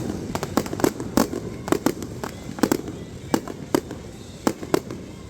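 Aerial fireworks going off close overhead: a quick, irregular string of sharp bangs and pops, a dozen or more, over a low background rumble.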